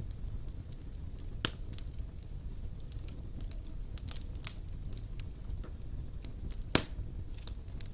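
Wood fire burning in a fireplace: a steady low rumble of flames with scattered crackles, a sharp pop about a second and a half in, and a louder pop near the end.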